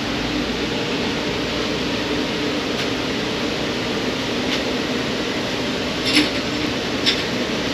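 A machine running steadily, with two short sharp clicks about six and seven seconds in.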